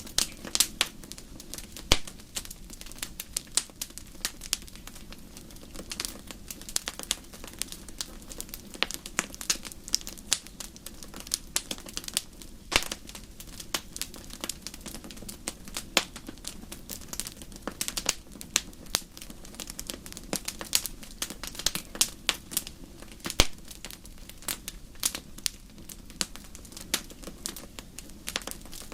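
Fire crackling: irregular snaps and pops, a few sharper ones standing out, over a low steady rustle.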